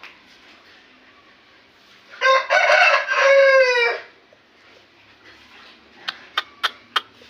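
Parrot-beak Aseel rooster crowing once, a loud call just under two seconds long that drops in pitch at the end. Near the end come four or five short, sharp clicks.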